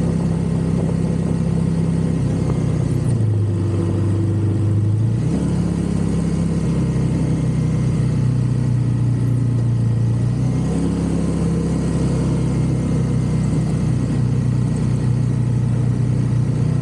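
Honda GL500 Silverwing Interstate motorcycle's liquid-cooled V-twin running while riding. The engine note drops about three seconds in and picks up again two seconds later. It eases lower again around six seconds in and comes back up near eleven seconds.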